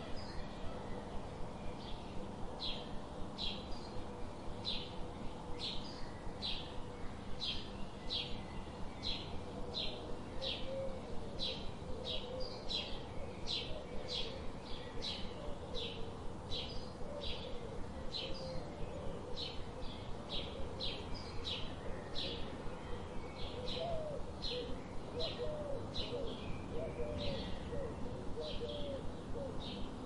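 Birds calling: a short high chirp repeats about twice a second throughout, and a lower, wavering call joins in from about halfway through.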